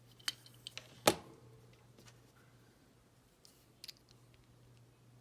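Small model-kit parts and a tool being handled on a tabletop: a few light clicks, one sharper knock about a second in, and a quick pair of clicks near the end, over a faint steady low hum.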